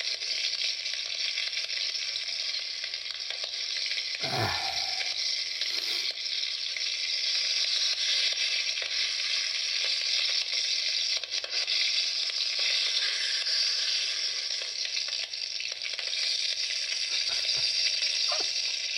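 Wood campfire burning strongly with a steady crackling hiss. A brief sound falling sharply in pitch comes about four seconds in.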